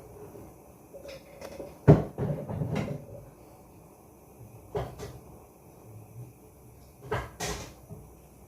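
Kitchen cupboard opened and shut while a bowl is fetched: a series of knocks and clatter, the loudest about two seconds in, then single knocks near the middle and a pair near the end.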